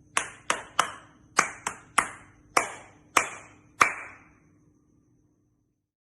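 Hand clapping: about nine sharp, separate claps at an uneven pace over some four seconds, each with a short echo.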